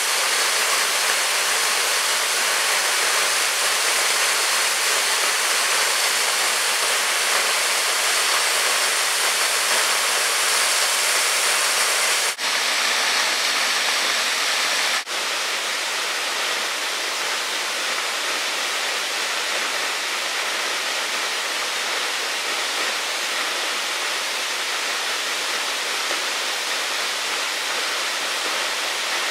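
Steady rush of running water from a rainforest creek or waterfall. It breaks off for an instant twice, about twelve and fifteen seconds in, and is a little quieter after the second break.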